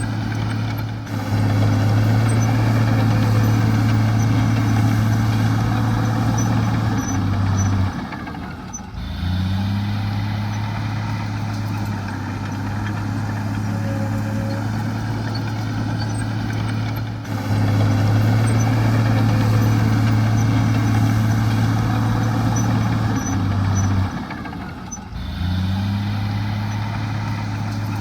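Heavy diesel earthmoving engine running steadily. Roughly every eight seconds its note drops away for about a second, then picks back up with a short rise in pitch.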